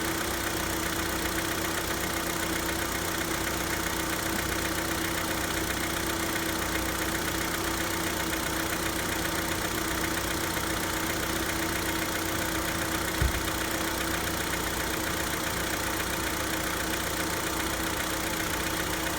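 Hyundai Santa Fe's G4KE 2.4-litre four-cylinder idling steadily from a cold start, filmed to check for a knock the owner is unsure of. One short low thump comes about two-thirds of the way through.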